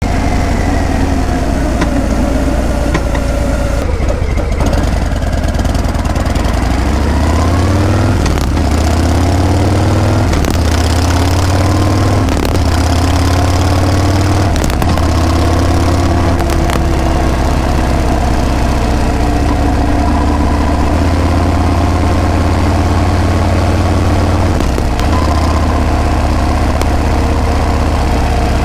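Harley-Davidson Breakout V-twin exhaust while riding. The engine note rises and drops back several times in the first half as it pulls up through the gears, then runs fairly steadily at cruising speed.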